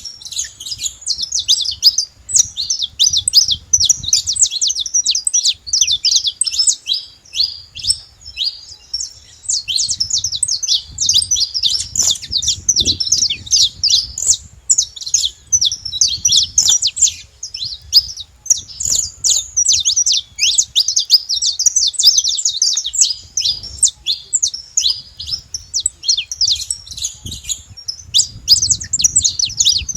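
Saffron finch singing: a long run of rapid, high chirping notes with only brief breaks, over a faint low rumble.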